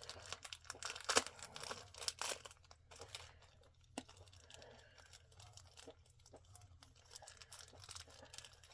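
Plastic packaging bags crinkling and tearing as they are handled and opened, busiest in the first three seconds, with a sharp click about four seconds in and lighter rustling after.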